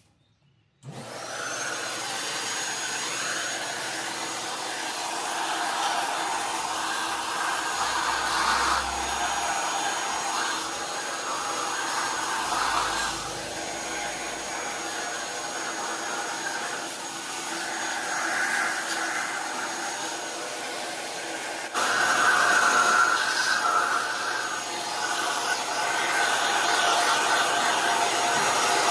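Handheld electric blower running with a steady rush of air and a thin high whine. It switches on just under a second in and gets louder about 22 seconds in.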